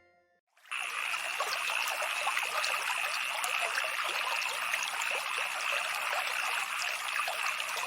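Running water trickling and splashing steadily, starting just under a second in, with a steady high-pitched tone running along with it.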